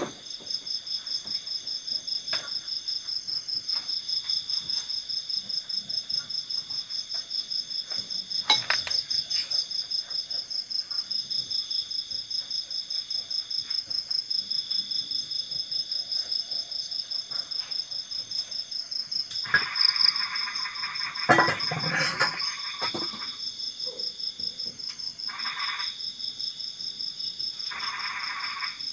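A chorus of night insects trilling steadily in a high pulsing drone, several pulses a second. Frogs call in short bursts about two-thirds of the way in and again near the end, and there are a few brief knocks.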